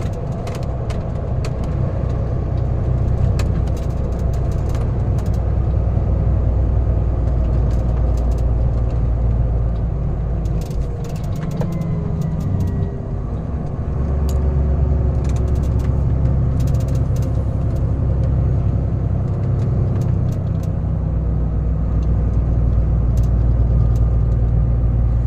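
Heavy truck driving: a steady low engine drone with road noise. The drone eases off briefly about thirteen seconds in, then comes back up.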